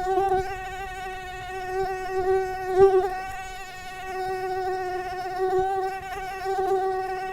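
Mosquito in flight: a steady, high whine whose pitch wavers slightly, swelling and fading in loudness and loudest about three seconds in.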